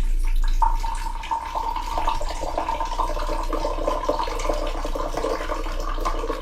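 Running water, steady throughout, with a constant hum underneath.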